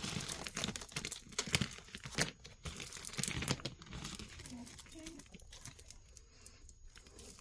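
Packaging crinkling and rustling as items are handled and unwrapped, a dense run of irregular crackles that thins out over the last few seconds.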